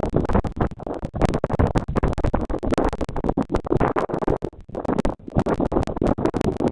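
Loud, dense scratchy rustling and crackling close to the nest camera's microphone, full of sharp clicks.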